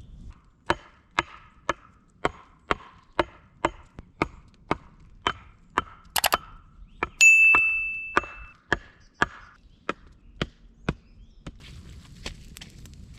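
Wood being chopped with an axe: sharp, evenly paced strikes about two a second. About seven seconds in, one strike rings out with a clear metallic tone that fades over a second or so.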